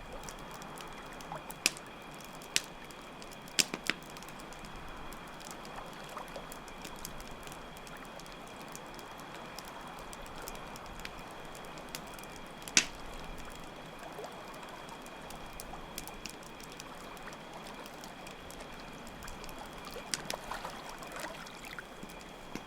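Campfire crackling with scattered sharp pops, the loudest about 13 seconds in, over a steady wash of flowing water and a constant, even chirping of crickets.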